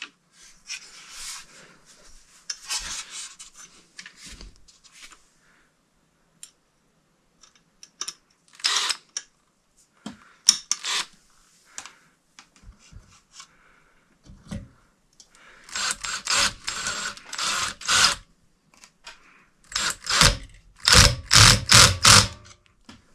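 Hands handling and rummaging through ceiling fan parts and hardware: scattered clicks, rubbing and scraping, with two runs of quick, loud scraping strokes in the last third.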